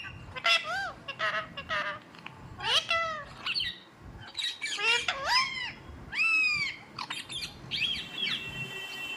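A pet parrot calling: a run of short squawks and chirps whose pitch sweeps up and down, in clusters with brief pauses between them.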